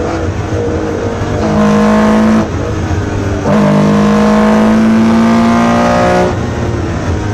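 Porsche 911 RSR's flat-six engine heard from inside the cabin, pulling hard twice with a short lift between, its pitch climbing through each pull. It backs off near the end.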